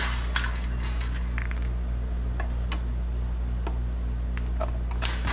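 Scattered light metallic clinks and taps from parts of a torn-down Briggs & Stratton engine being moved and handled, over a steady low hum.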